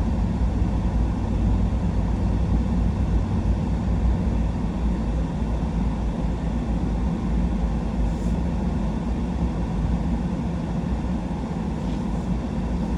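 Truck driving: a steady low engine and road rumble.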